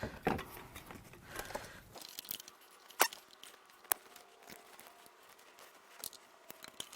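Scattered light clicks and taps of hands handling parts and connections on an engine being taken apart, with one sharper click about three seconds in.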